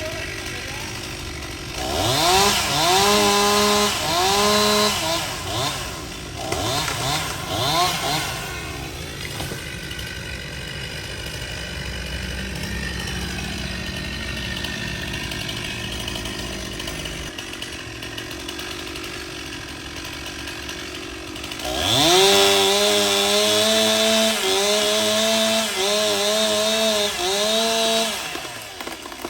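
Two-stroke chainsaw revving up in several short bursts, then running more quietly for several seconds, then held at high revs for about six seconds with its pitch dipping and recovering repeatedly before it drops back.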